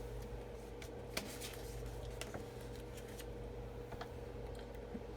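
Faint scattered clicks and light handling noises of craft tools on a work surface, over a steady low electrical hum.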